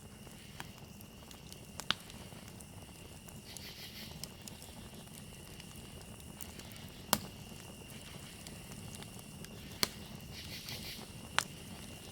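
Campfire crackling with a low steady burn and a few sharp pops, about four in all. Crickets trill steadily over it, with bursts of faster insect chirping now and then.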